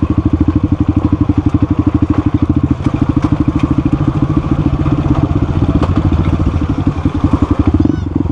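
Motorcycle engine running at low revs with an even, rapid pulsing beat, and a few light clicks over it.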